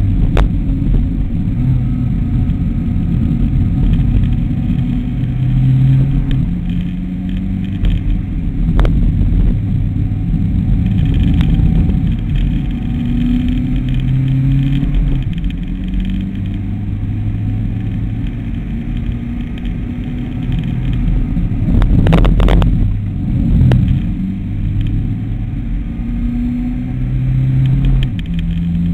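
Mitsubishi ASX engine heard from inside the cabin while the car is driven hard, its pitch climbing again and again and dropping back at each gear change, over steady road rumble. A short cluster of sharp knocks about two-thirds of the way through.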